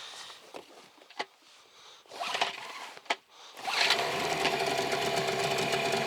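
Small outboard motor, a Hidea 9.9, starting about four seconds in and then running steadily. Before it, a few light knocks and clatters.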